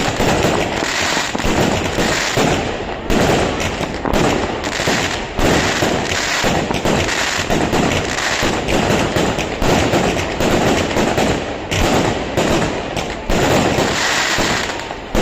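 Fireworks display: a rapid, unbroken run of loud bangs and crackling bursts, many overlapping.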